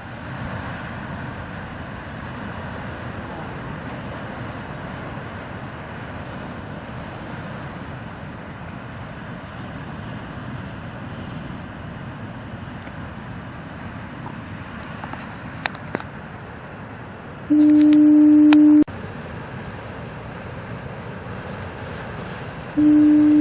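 Heavy storm surf rushing steadily onto the shore. A lighthouse foghorn sounds one steady low blast of just over a second about three-quarters of the way through, and starts another near the end.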